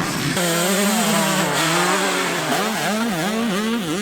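Small two-stroke motocross bike engine revving, held at a steady high pitch for about two seconds, then blipped up and down several times in quick succession.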